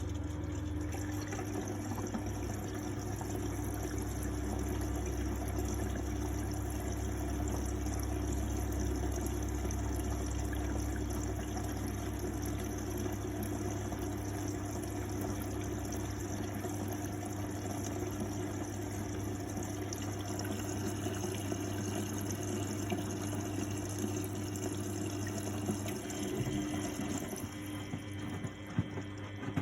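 A 1999 Miele Novotronic W828 washing machine taking in water early in a Cotton 60 wash: a steady rush of incoming water with a low hum, easing off near the end.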